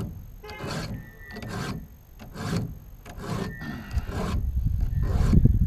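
A chainsaw file rasping across the teeth of a chainsaw chain in repeated strokes, about one or two a second. A low rumble builds near the end.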